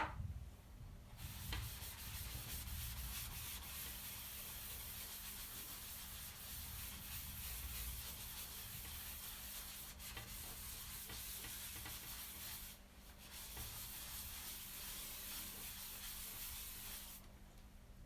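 Dry rag wiping dried ash paste off sooty fireplace door glass: a faint, steady rubbing hiss that pauses briefly a little past two-thirds of the way through and stops shortly before the end.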